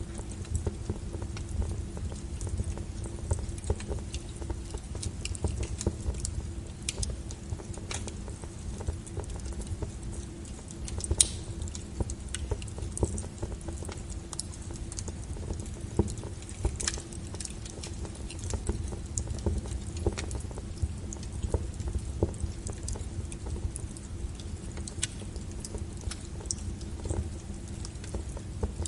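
Firewood burning and crackling, with irregular pops and snaps over a low steady rumble. One sharper pop comes about eleven seconds in.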